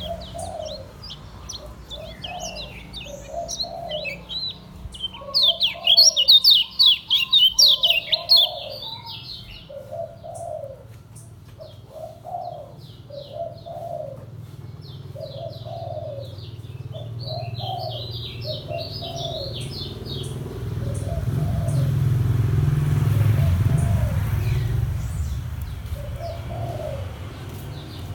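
Kecial kuning white-eye singing in bursts of fast, high twittering trills, loudest a few seconds in. A dove coos a low call over and over behind it, and a low rumble swells and fades in the second half.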